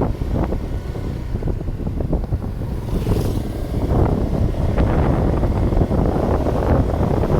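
Strong wind buffeting the microphone: a loud, steady low rumble with many short rustling flicks and a brief hiss about three seconds in.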